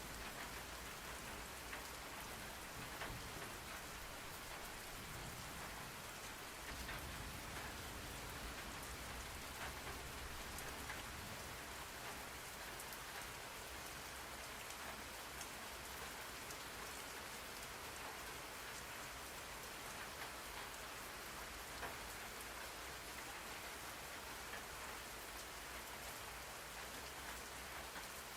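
Steady rain falling, an even hiss with the patter of many small drops on a surface.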